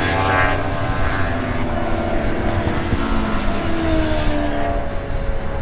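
Superbike racing motorcycle engines at high revs on track, their note rising and falling as bikes go by and change gear.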